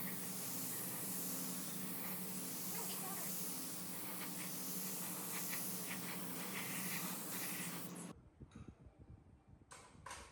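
A steady hissing noise over a low hum, like air or a spray from a workshop tool, that cuts off suddenly about eight seconds in. A few soft knocks and sharp clicks follow.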